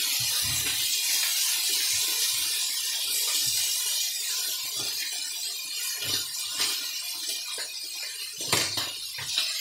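Snapper fillets and prawns sizzling in a hot grill pan, with scattered clinks and knocks of a utensil turning the prawns in the pan, a few of them louder near the end.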